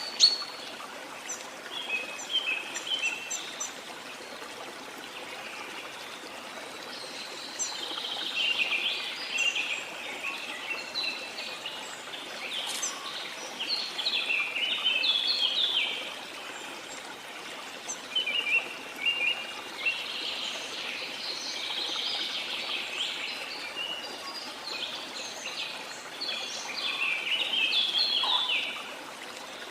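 Rain forest birds singing in repeated bursts of quick, high chirps and trills over the steady rush of a flowing river.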